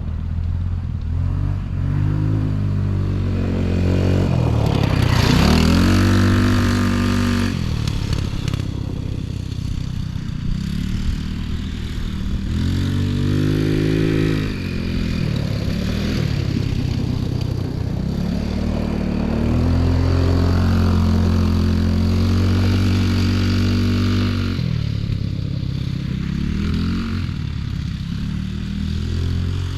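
Engine of an off-road bike or quad being ridden, revving up and easing off several times. The pitch climbs and drops sharply about five seconds in, again near fourteen seconds, then holds steady for a few seconds before falling again near twenty-five seconds.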